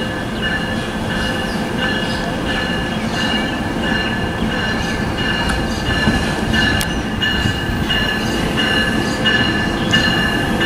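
NJ Transit multilevel passenger train rolling past at close range, a steady rumble with its wheels giving a high squeal that comes and goes in short pulses.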